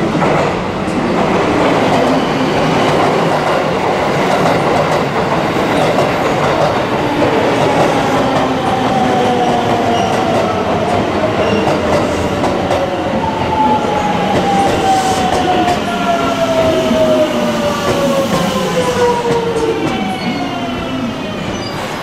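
JR West 281 series Haruka limited express electric train pulling into the station, wheels clattering on the rails under a steady rumble. Through the second half a whine falls slowly in pitch as the train slows towards its stop.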